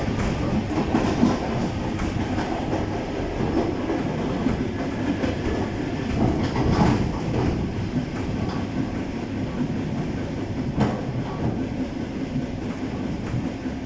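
ED9M electric multiple-unit train running along the track: a steady rumble of wheels on rails, with occasional knocks as the wheels pass over rail joints.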